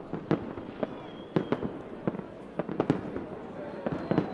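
Fireworks going off: an irregular string of sharp bangs, about a dozen, over a steady background din, with a faint high whistle about a second in.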